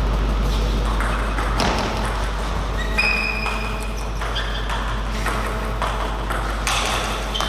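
Table tennis ball clicking and pinging off rackets and table in a rally: irregular sharp hits over a steady low hum.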